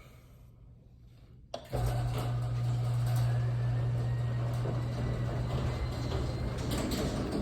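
LS-swapped 6.0-litre V8 in a G-body Oldsmobile Cutlass cold-started: a brief crank, then it fires about a second and a half in and runs at a steady idle.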